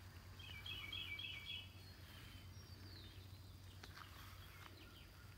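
A songbird singing: a quick run of short repeated chirping notes about half a second in, then a faint falling whistle, over a steady low background hum.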